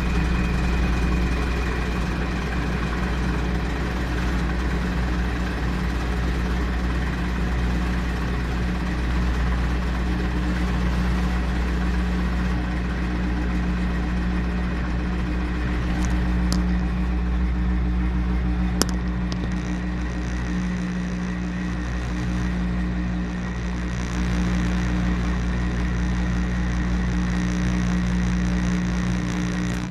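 Washing machine running with a steady motor hum and whir through a wash cycle, with a couple of faint clicks about sixteen and nineteen seconds in.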